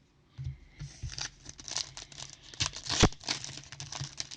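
Trading cards and their plastic wrapping being handled: a quick run of rustles and crinkles, with one sharp snap about three seconds in.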